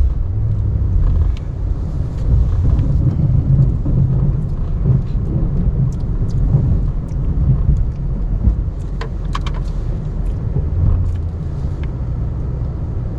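Ram 1500 Classic pickup's engine running steadily under plowing work, a low rumble that rises and dips a little, with a few scattered clicks and knocks.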